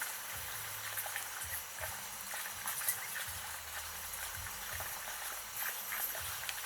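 A flock of ducklings peeping, with many small clicks and patters as they move about.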